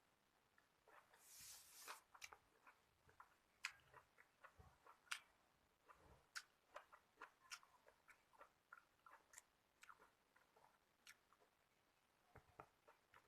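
Quiet close-up eating sounds of a person eating shrimp: faint chewing with many small scattered clicks, and a brief rustle about a second in.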